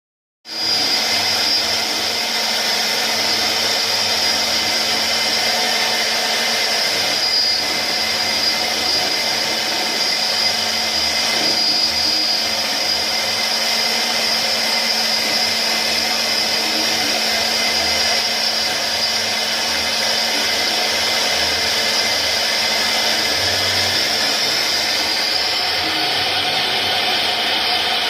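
CNC router spindle running at a steady speed with a constant high whine, its bit engraving wood; the noise starts abruptly about half a second in and stays level, dulling slightly near the end.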